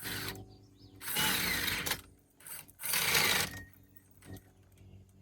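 Electric drill boring through a chair's aluminum frame tube in short runs: a brief burst at the start, then two louder bursts of about a second each.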